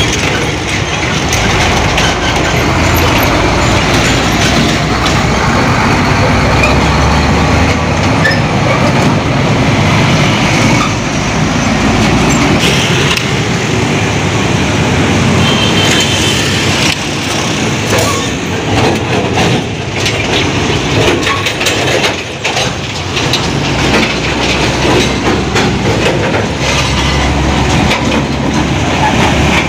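Heavy road traffic: trucks running and passing, with a continuous loud engine and tyre noise and a few short knocks partway through.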